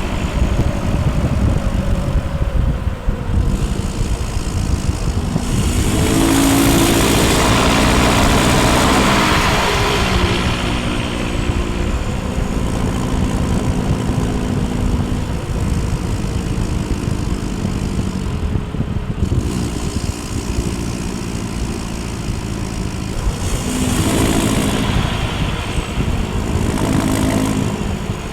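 Land Rover Defender 90's 2.4 TDCi four-cylinder turbodiesel running through a straight-through exhaust, heard close to the tailpipe. The revs rise about six seconds in and fall back a few seconds later, with two shorter rises in revs near the end.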